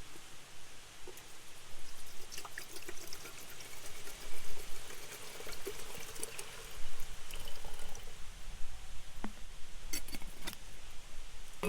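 Water being poured into a kettle for a few seconds, followed by a few light clinks near the end.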